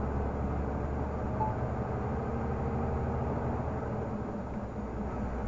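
Renault Magnum 480 truck's six-cylinder diesel engine running steadily under way, a continuous low drone.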